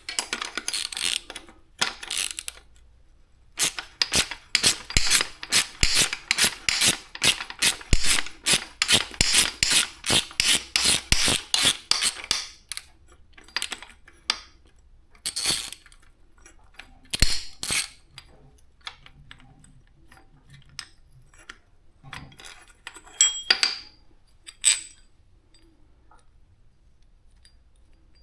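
Hand tools working on metal motorcycle parts. There is a quick run of rubbing, ratcheting strokes at about three a second, lasting around nine seconds, then scattered metallic clinks and knocks.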